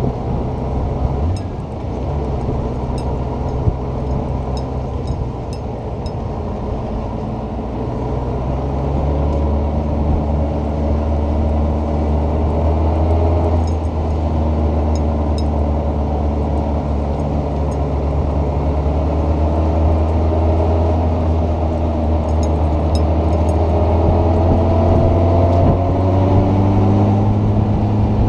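Touring motorcycle engine running under way on the road, a steady engine note over rushing wind noise. The note shifts to a lower pitch about a third of the way through and climbs slowly near the end as the bike speeds up.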